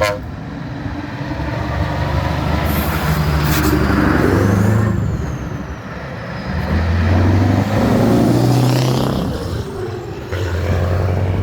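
Old trucks' engines running, the sound swelling and fading twice. There is a short high hiss about three seconds in.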